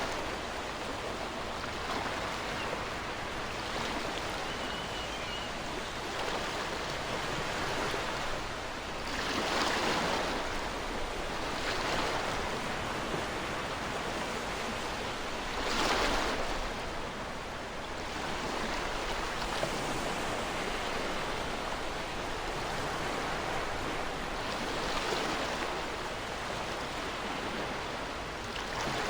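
Ocean surf washing onto the shore: a steady rush of water with swells as waves break every few seconds, the strongest about sixteen seconds in.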